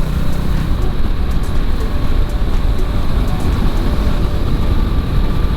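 Bajaj Dominar 400 motorcycle running steadily at highway speed, with heavy wind rush over the microphone.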